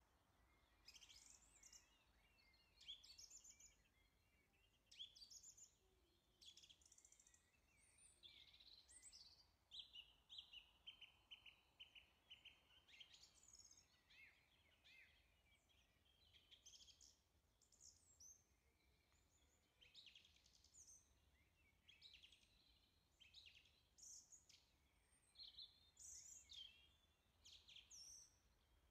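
Very faint birdsong: many short high chirps and calls, with a longer trill about ten seconds in.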